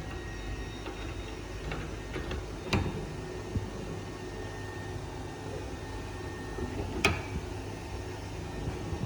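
Small metal injector parts being handled during reassembly, with two sharp clicks a few seconds apart and a few fainter ticks, over a steady low hum.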